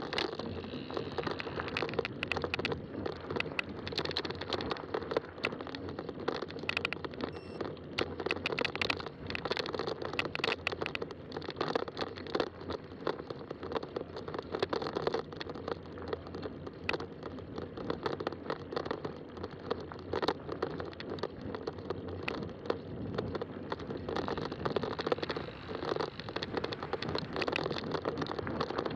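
Fat-tire bike riding along a trail: steady rolling tire noise with many small crackles and clicks.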